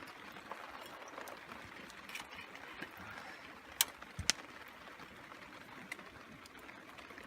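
Steady hiss of rain and a nearby river. Two sharp clicks near the middle, about half a second apart.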